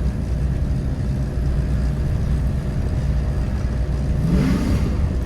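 Chevrolet 5.3 V8 running under way while the slipping 4L60E automatic transmission drives the truck, revving up briefly near the end. A loud noise from the transmission pump runs with it, which the occupants take for a worn-out pump.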